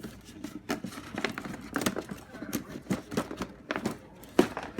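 Plastic packaging of an action figure being handled: irregular crinkles, rustles and sharp clicks of plastic trays and wrapping.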